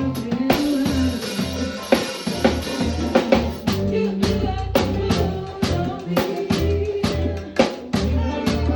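Live band playing: a drum kit keeps a steady beat of kick and snare hits over a bass line, with a wavering melody line on top. A cymbal wash rings for over a second near the start.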